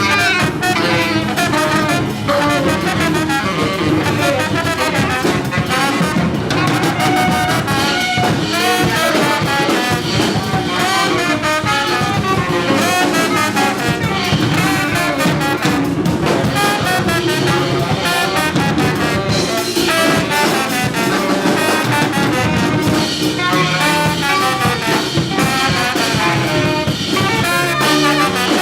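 Live free jazz: trombone and tenor saxophone playing loud, dense, wavering lines together over busy drums and bass, without a pause.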